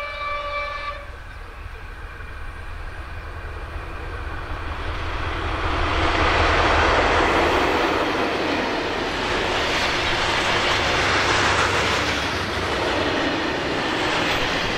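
Locomotive-hauled freight train of silo wagons approaching and passing close by: the noise builds to its loudest about six to eight seconds in as the locomotive goes past, then carries on as the wagons' wheels roll over the rails. A steady horn-like tone cuts off about a second in.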